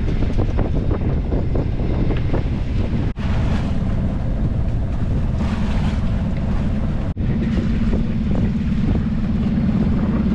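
Wind buffeting the microphone over the sound of waves and water along a small sailboat under way, in short clips cut together. A steady low hum joins in about four seconds in and grows stronger for the last few seconds.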